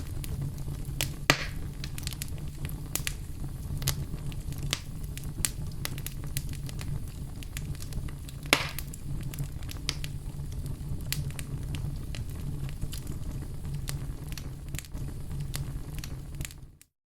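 Wood fire crackling in a fireplace: a steady low rumble with frequent sharp snaps, and two louder pops, about a second in and again after about eight and a half seconds. The sound fades out to silence just before the end.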